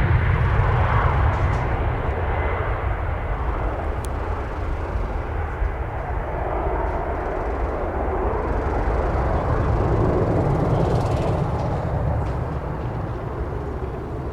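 Airbus A320 jet engines on a departing climb-out, a steady roar slowly fading as the plane flies away, with heavy wind rumble on the microphone.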